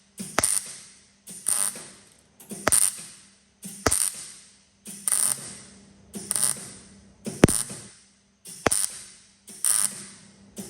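MIG welder stitch-welding a steel patch panel in short, evenly repeated bursts, about one a second. Each burst starts with a sharp crack as the arc strikes and crackles for under a second before stopping, over a low steady hum.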